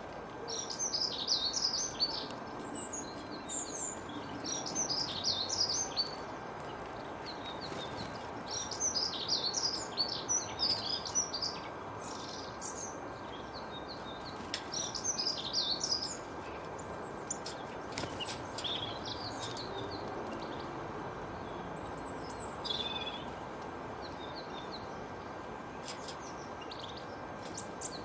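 Songbirds singing in bursts of rapid, high chirping phrases a second or few long, repeated every few seconds over a steady background hiss.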